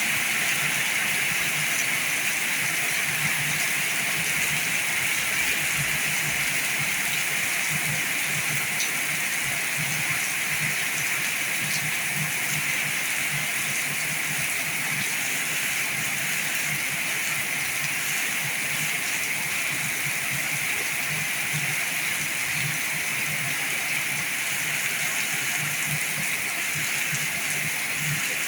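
Heavy rain falling steadily, a continuous hiss with no letup.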